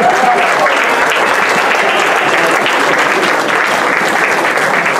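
Audience applauding steadily and loudly, a dense, even patter of many hands clapping, with a few cheers mixed in, at the end of a magic act.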